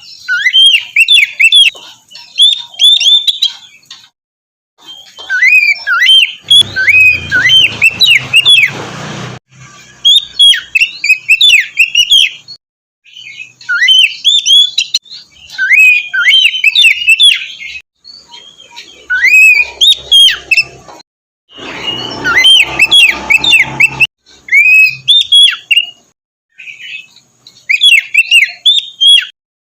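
Oriental magpie-robin (kacer) singing in a run of phrases of quick, sharp whistled notes that sweep up and down, each phrase a few seconds long with short pauses between. Twice a low noise sits under the song for a couple of seconds.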